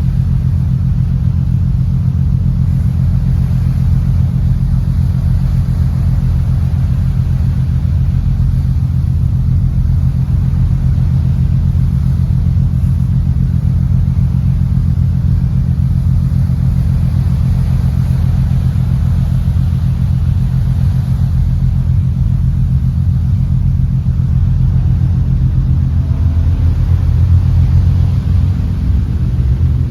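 An engine running steadily with a low drone, getting a little louder and shifting in pitch near the end.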